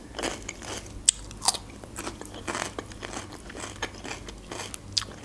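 Close-miked mouth sounds of someone chewing raw red bell pepper: a run of irregular crisp crunches and wet chewing.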